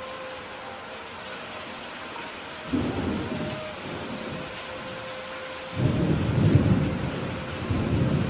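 Steady rain hissing, with thunder rumbling twice: a shorter roll about three seconds in, then a louder, longer rumble from about six seconds in.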